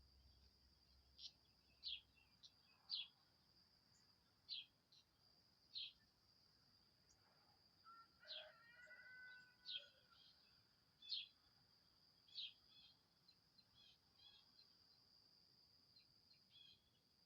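A small bird chirping: short, sharp, downward-sweeping chirps repeated every second or so, over a steady high-pitched insect drone. About halfway through a lower, longer call with a fuller tone comes in briefly.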